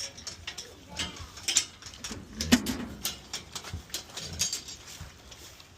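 Pigs grunting among scattered knocks and clatter, the loudest about two and a half seconds in.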